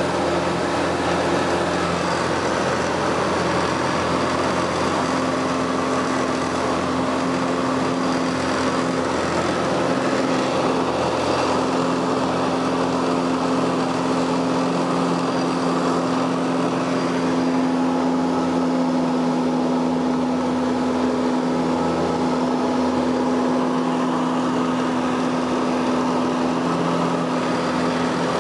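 Light aircraft's piston engine and propeller running steadily, a constant drone holding one pitch.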